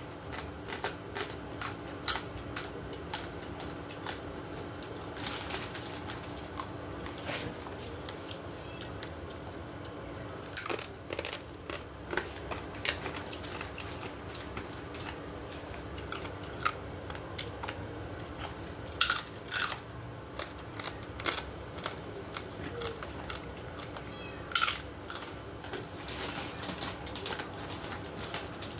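Kitchen handling sounds at the stove: scattered sharp clicks, knocks and some crinkling over a steady hum, with a few louder knocks partway through.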